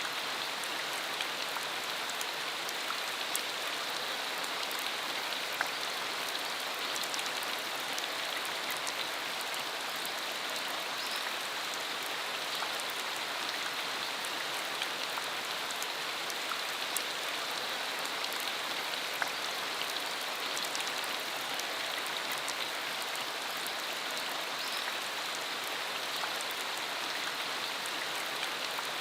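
Rain shower falling steadily, an even hiss of rain with many individual drops ticking sharply close by.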